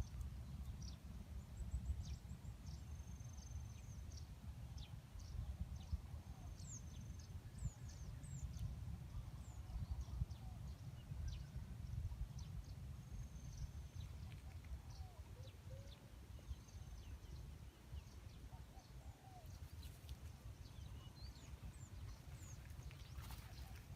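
Birds chirping and calling, short high chirps scattered throughout with a few lower sliding calls, over a steady low rumble of light wind on the microphone.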